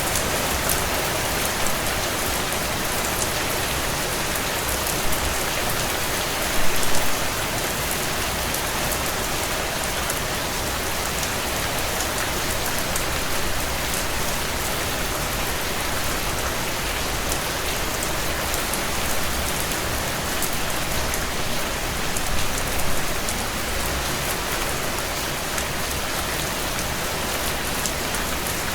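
Heavy rain drumming steadily on a tin roof, a dense patter of drops with a few brief louder bursts of drops.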